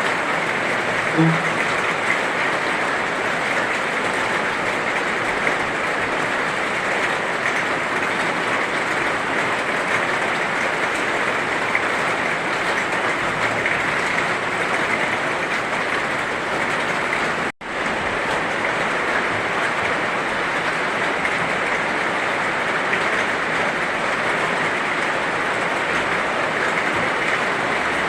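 Heavy rain falling steadily, an even hiss, with a split-second cut to silence a little past halfway.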